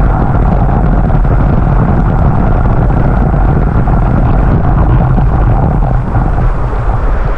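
Waterfall's loud, steady roar of falling water, heaviest in the low rumble.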